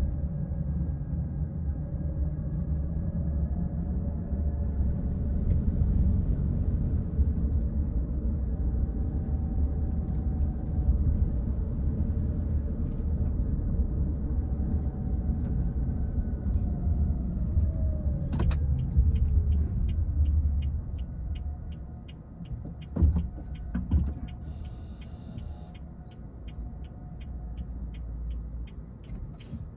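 Car driving with steady road and engine noise that falls in pitch and quietens as the car slows to a stop about two-thirds of the way in. A regular ticking then starts, about two to three ticks a second, like a turn-signal indicator. Two soft thumps come a second apart, near the end.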